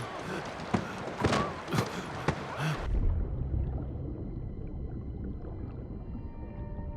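Splashing and sloshing floodwater with sharp knocks. About three seconds in, the sound suddenly turns into a muffled low underwater rumble with faint steady tones.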